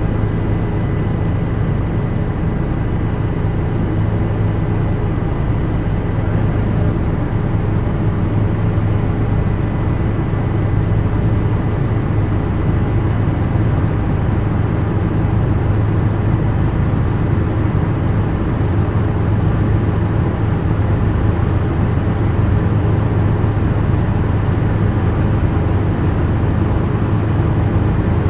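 Helicopter cabin interior in flight: a loud, steady low drone with a thin steady whine above it, unchanging throughout.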